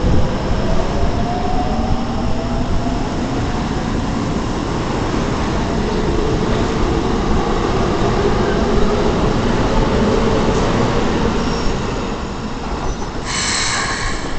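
Keikyu 600-series electric train pulling out and gathering speed, its traction motors whining in faint tones that rise in pitch over the wheel and rail noise. A brief high-pitched ringing sound comes near the end.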